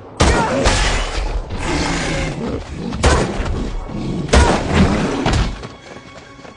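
A film action soundtrack with a run of about six loud bangs and thuds over five seconds, falling quieter near the end.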